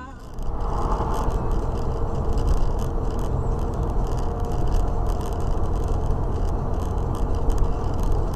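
A car on the move, with steady road and engine rumble and frequent light rattles and clicks.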